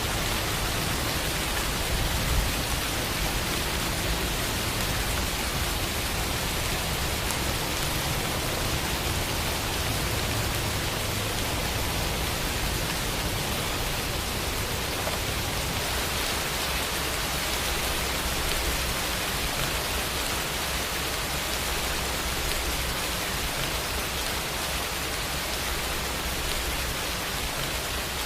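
Steady rain falling, an even dense hiss with a low rumble under it, a little stronger in the first half.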